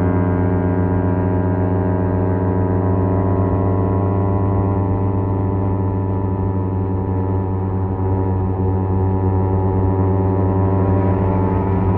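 Kawasaki Z250's parallel-twin engine with a SeaPro aftermarket muffler, running at a steady cruise with an even exhaust drone. The note eases slightly about seven seconds in and picks back up a second later.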